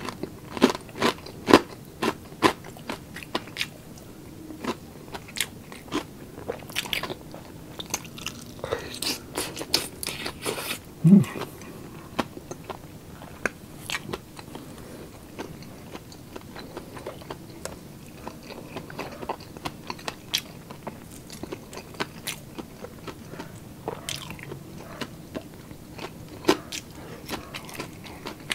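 Close-miked chewing of crunchy food, with sharp crackling bites and crunches, densest at the start and again a little before the middle, thinning out later. A short low hum-like sound stands out near the middle.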